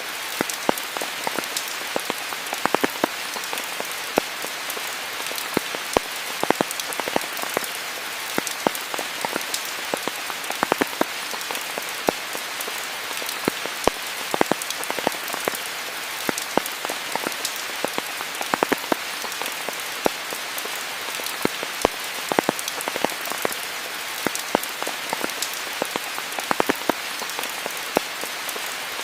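Steady rain falling, an even hiss with many sharper individual drops ticking close by at irregular moments.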